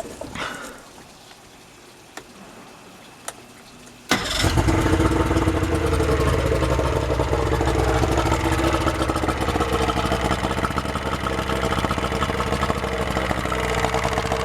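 Yamaha outboard motor restarting after a stall that the owner puts down to leftover fogging oil. About four seconds in, the engine catches suddenly and then runs steadily at a fast idle.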